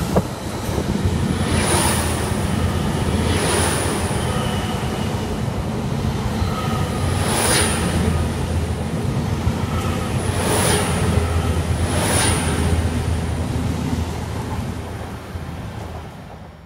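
LNER Azuma (Hitachi 800-series) express train running through the platform close by: a steady rumble and rush of wheels and air, with a louder swish every few seconds as the coaches go past. It fades near the end as the tail of the train draws away.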